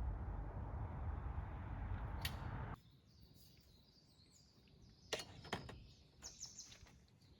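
Small birds chirping, with two sharp clicks about halfway through. Before that, a steady rushing noise fills the first three seconds and cuts off suddenly.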